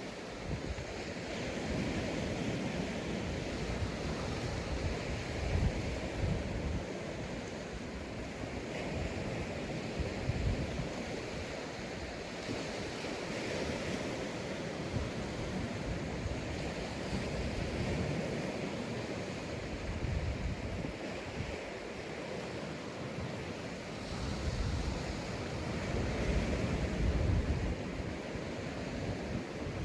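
Sea waves breaking and washing up a sandy beach: a continuous surf hiss that swells and ebbs every few seconds, with low gusts of wind rumbling on the microphone.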